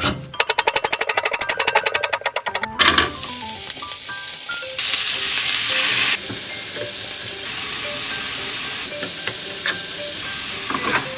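Brisk rhythmic beating in a bowl, about ten strokes a second, for the first couple of seconds, then food sizzling steadily in hot oil in a pan, louder for about a second midway. Light background music plays underneath.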